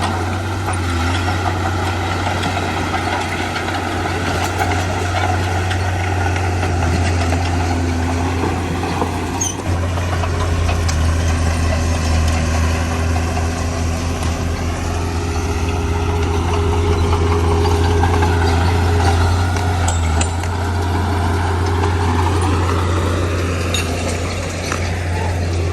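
Diesel engine of heavy earthmoving machinery running steadily under load, its pitch shifting a little in the second half.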